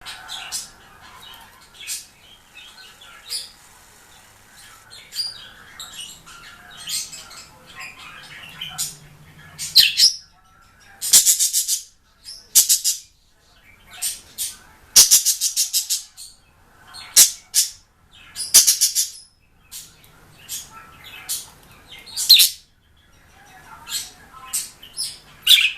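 A bird chirping and chattering: sharp high calls mixed with fast, buzzy trills that come in irregular bursts with short pauses between them.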